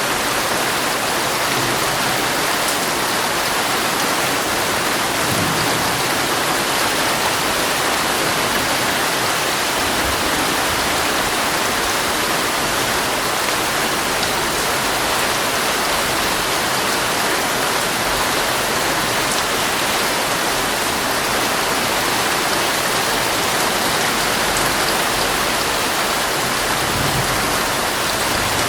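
Heavy rain falling steadily on a tent, heard from inside it as an even, unbroken hiss.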